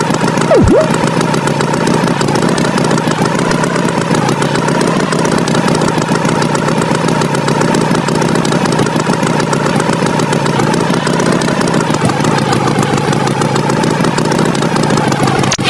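Cartoon tractor engine sound effect running steadily, with a wavering drone. A quick falling swoop cuts across it about half a second in.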